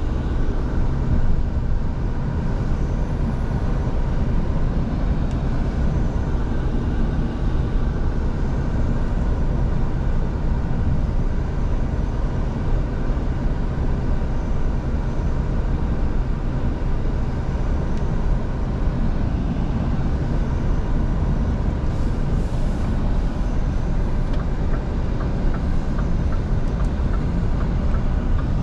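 Scania V8 truck engine running steadily while the truck drives, a constant low drone mixed with road noise.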